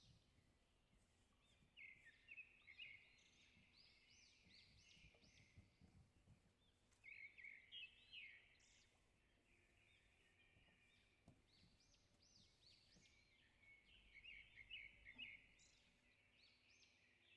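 Faint small birds chirping in quick, repeated bursts, loudest about two seconds in, around seven to eight seconds in and again near the end, over a faint low background hum.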